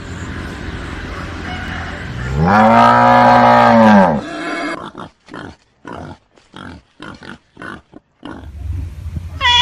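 An animal's long call that rises and then falls in pitch, followed by a run of about eight short calls, roughly two a second.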